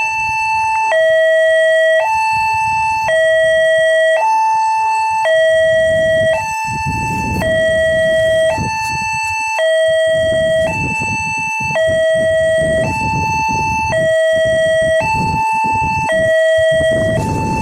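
Railway level-crossing warning alarm sounding a two-tone electronic signal that alternates between a lower and a higher note about once a second, the warning that a train is approaching and the crossing is closing. A low rumble joins underneath from about six seconds in.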